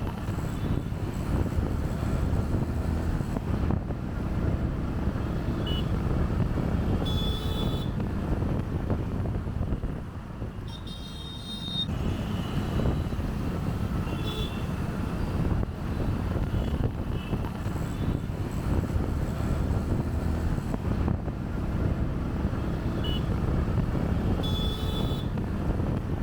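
Motorcycle riding in city traffic: a steady low engine and road rumble that eases briefly about ten seconds in, with short high-pitched beeps now and then, the longest about eleven seconds in.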